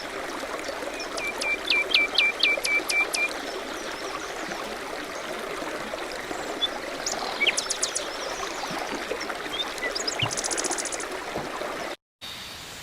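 A stream running steadily, with songbirds calling over it: a quick run of about eight evenly repeated notes early, then scattered chirps and a short high trill. The sound cuts out briefly near the end.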